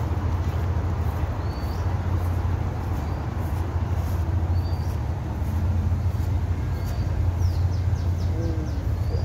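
A steady low rumble with small birds chirping over it: short, high, rising chirps every second or so, and a quick run of falling notes near the end.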